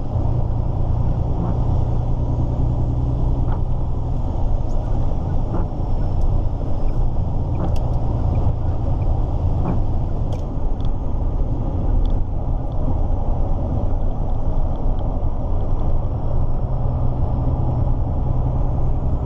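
Volvo F16 truck's diesel engine running, a steady low rumble with a few faint light clicks.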